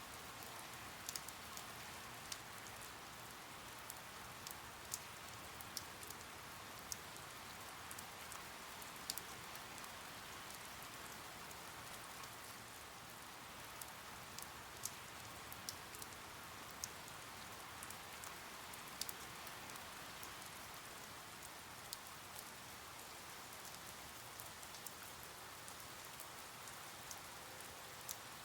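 Steady rain falling, a soft even hiss with scattered sharp, irregular drop taps.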